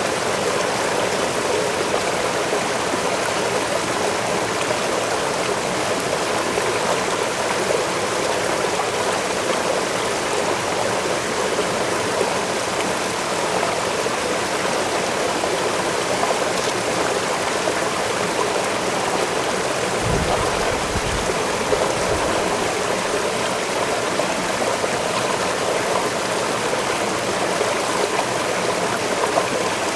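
Waterfall: a steady, even rush of falling water, with a brief low rumble about two-thirds of the way through.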